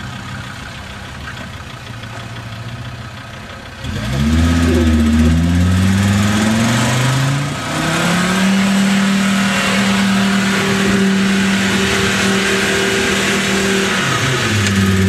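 Lifted 4x4 off-roader's engine running low, then revved hard about four seconds in, its pitch climbing and held high under load as the vehicle churns through deep mud, with black smoke from the exhaust. The revs drop and pick up again near the end.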